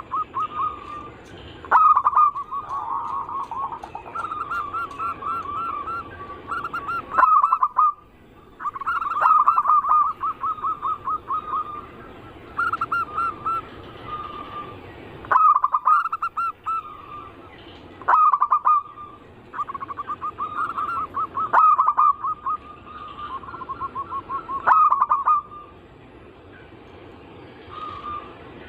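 Zebra doves (perkutut) cooing. Phrase after phrase of quick, rippling notes comes every few seconds, each phrase lasting a second or so to about three seconds, and two birds sometimes overlap at slightly different pitches.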